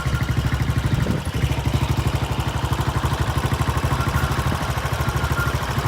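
An engine idling steadily with a rapid, even throb.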